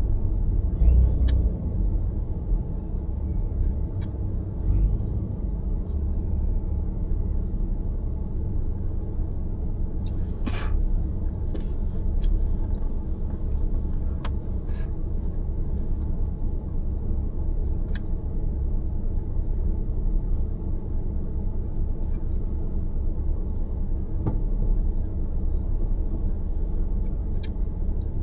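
Car driving through city traffic: a steady low rumble of road and engine noise, with a few faint clicks and a short hiss about ten seconds in.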